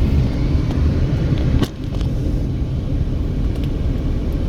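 Car driving on the road: a steady low rumble of engine and road noise. There is a single sharp click about a second and a half in, with a brief drop in loudness.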